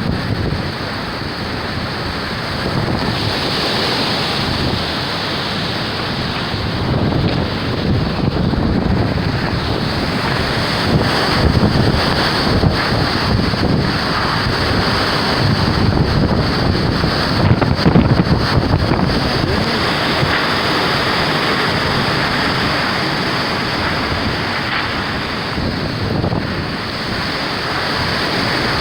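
Hurricane Beryl's storm wind rushing and gusting continuously, with low rumbling buffets of wind on the microphone; the gusts are strongest in the middle.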